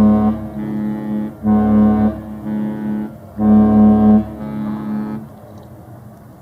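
Cruise ship's horn sounding three blasts of one steady deep tone, each loud blast trailing into a weaker stretch of the same note, as a departure signal.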